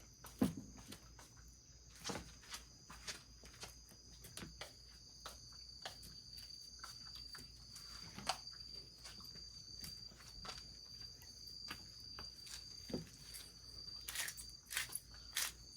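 A steady high-pitched insect trill, with many scattered small clicks and a few dull knocks, and a busier run of clicks near the end.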